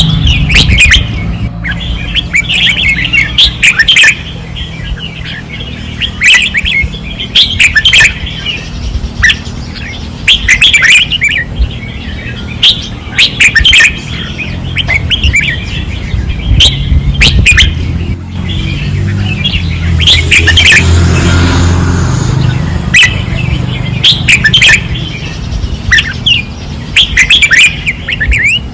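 Caged red-whiskered bulbuls singing hard on a practice perch rail: short, loud, warbled song phrases following one another every second or two, with a steady low hum underneath.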